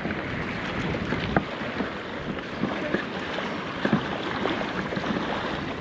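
Wind buffeting the microphone over choppy lake water, a steady rushing noise with small splashes and knocks scattered through it.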